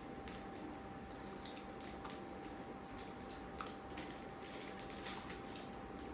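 Faint scattered clicks and light scrapes of people eating, with a steady faint hum underneath.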